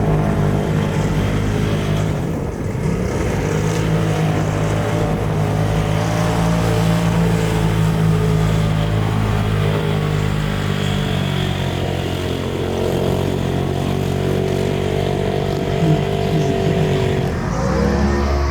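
Stock UTV side-by-side engine running hard at fairly steady revs, with the pitch shifting about a second before the end.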